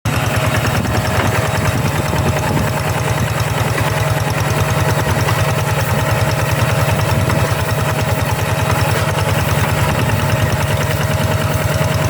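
G1000 hand tractor's engine running steadily with a fast, even chugging, a steady whine above it.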